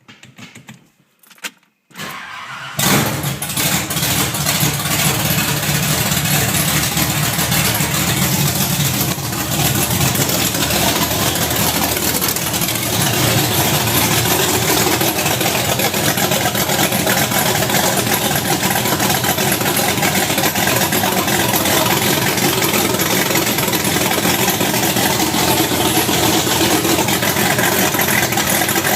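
Ford 351 Windsor small-block V8 being fired up for the first time after being freshly installed. It cranks briefly about two seconds in, catches within a second and then runs loudly and steadily.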